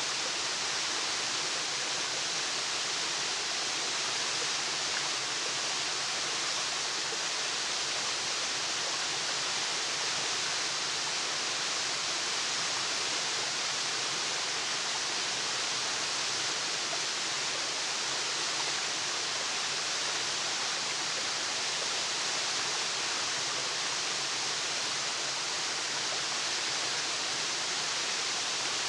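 Waterfall: a steady rush of falling water, an even hiss strongest in the high range, unchanging throughout.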